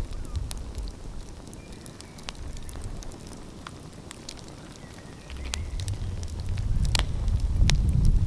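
Wood fire crackling with scattered sharp pops, over a low rumble that grows louder from about five seconds in.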